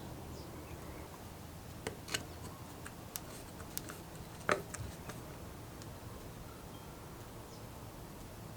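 A scattered run of short, light clicks and taps from handling the tractor carburetor's parts and hand tools, the loudest about four and a half seconds in, over a low steady hum.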